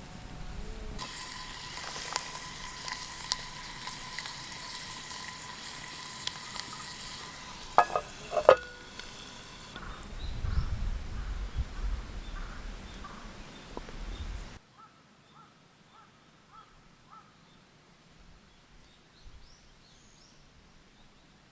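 Food sizzling in a pan over a campfire, with two sharp metal clinks about eight seconds in and a low rumble after. About two-thirds of the way through it cuts off abruptly to a quiet background with faint bird chirps.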